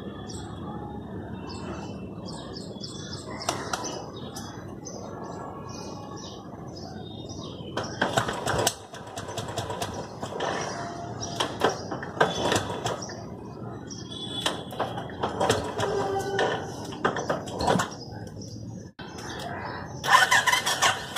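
Small birds chirping over and over. From about eight seconds in there are irregular sharp knocks and clatter, loudest near the end.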